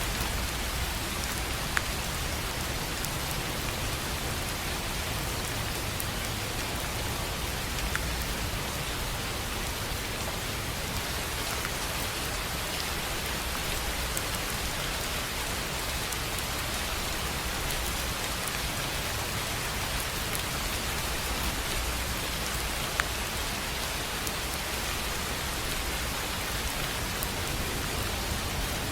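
Steady rain falling on a tin roof, a continuous hiss dotted with individual drop ticks, two of them sharper, about 2 seconds in and near 23 seconds.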